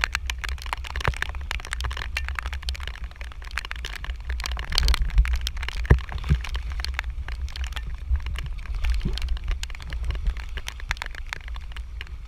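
Wind buffeting the microphone: a heavy, steady low rumble with dense crackling, gustier about five seconds in.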